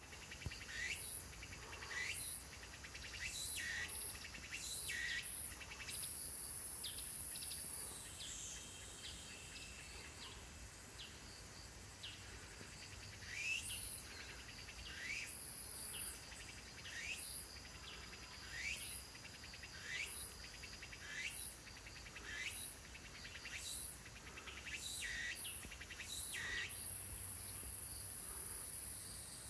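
Tsukutsukuboshi cicada (Meimuna opalifera) singing its phrase song: rhythmic, high-pitched calls repeated about once a second. The calls are broken by two longer steady buzzes, one about six seconds in and one near the end.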